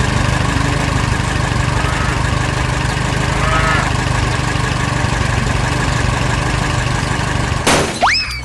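Tractor engine sound effect running steadily with a heavy low rumble. Near the end a sudden loud crash cuts in, followed by a falling whistling tone.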